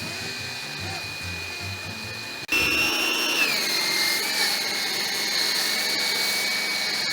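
Pressure washer motor running with a steady high whine while spraying through a foam cannon. About two and a half seconds in it gets suddenly louder, and a second later its pitch drops a little.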